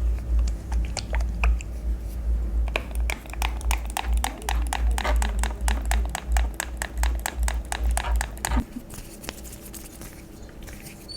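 Close-up hair-care handling noises: a quick run of sharp clicks and crackles, several a second, over a low rumble of handling that stops short about two-thirds of the way through.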